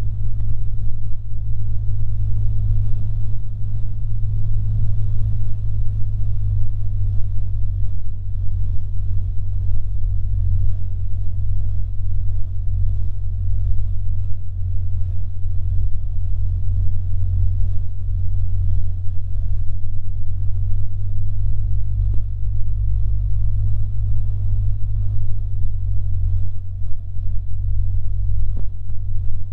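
Cessna 150's four-cylinder Continental O-200 engine and propeller running steadily, a loud, even low drone with a faint steady higher tone above it.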